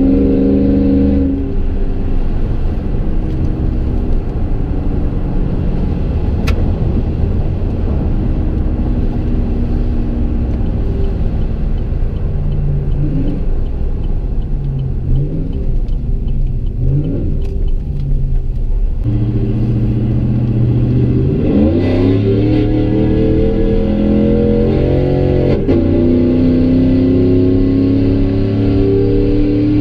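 Exhaust of a Chevy Silverado's 5.3L V8 through a 3-inch Gibson M.W.A muffler and Kooks long-tube headers with no resonator, heard from inside the cab while driving. The engine runs at a fairly steady pitch for most of the stretch, then about two-thirds in it revs up under acceleration, drops at a gear change about four seconds later, and climbs again.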